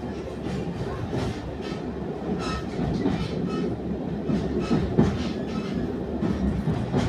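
A passenger train running along the track, heard from on board: a steady rumble with irregular clicks from the wheels over the rails.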